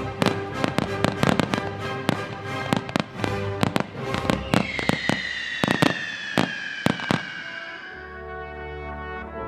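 Fireworks finale: a rapid barrage of sharp bangs and cracks, with a falling whistle from about halfway. The bangs stop near the end and a sustained brass music chord takes over; music plays beneath the bangs throughout.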